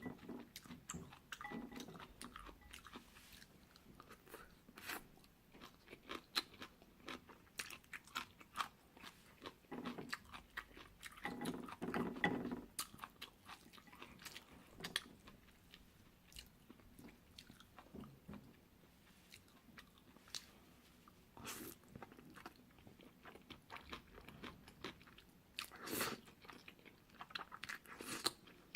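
Close-miked chewing and biting of chewy jjolmyeon noodles: a steady run of short, moist clicks and smacks, loudest and busiest about twelve seconds in.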